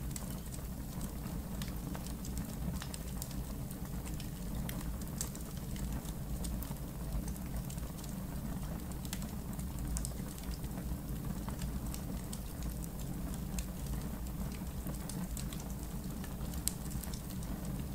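Wood fire burning in an outdoor fire pit, crackling with irregular sharp pops and snaps, several a second, over a steady low rumble.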